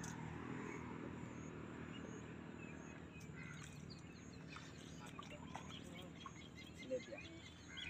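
Quiet rural outdoor ambience: faint bird chirps from about three seconds in, over a low steady hum.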